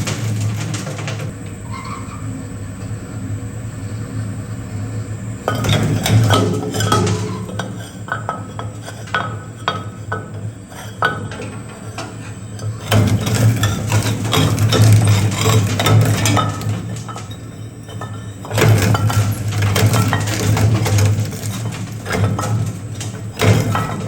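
Industrial shredder running with a steady low hum while hard material breaks up in it in a rapid series of sharp cracks, clinks and crunches. The cracking thins out between about one and five seconds in, then comes thick and fast, easing briefly near the three-quarter mark before picking up again.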